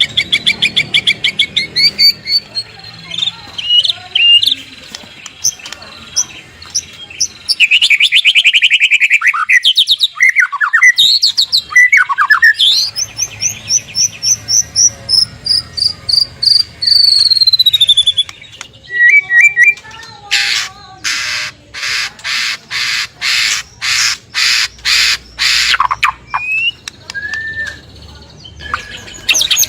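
White-rumped shama (murai batu) singing a fast, varied song of clear whistles and rapid trills, including a series of falling whistled notes. In the second half comes a run of loud, harsh repeated notes at about two a second.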